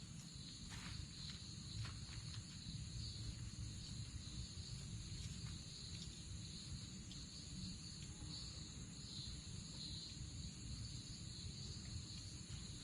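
Insects chirping in a steady, shrill chorus held around one high pitch, pulsing gently, over a low steady rumble.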